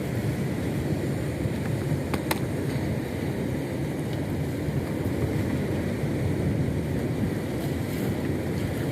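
Fishing boat's engine running steadily, with wind on the microphone and a couple of sharp clicks about two seconds in.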